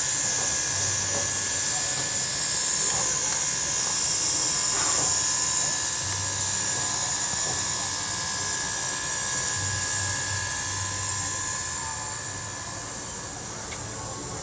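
Train running with a steady high hiss and two held ringing tones, which fade out near the end.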